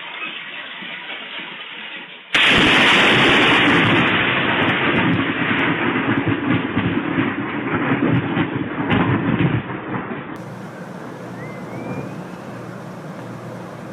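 A steady hiss, then about two seconds in a sudden, very loud thunderclap from a close lightning strike, crackling and rumbling for several seconds before it drops back to a quieter steady background.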